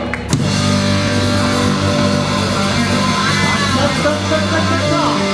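Rock band playing live, with electric guitar and bass coming in on a hard hit just after the start and carrying on in held chords.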